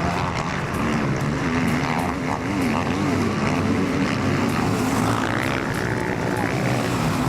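Motocross bike engines running, one rising and falling in pitch again and again with the throttle, over the steady drone of other bikes.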